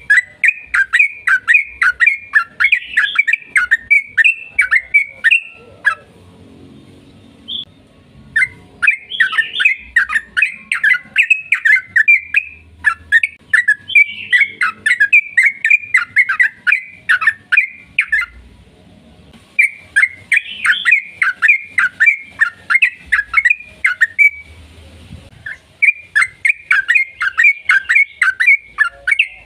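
Yellow-vented bulbul (trucukan) singing in long, fast runs of loud, chattering notes, about two to three a second, with three short pauses between runs.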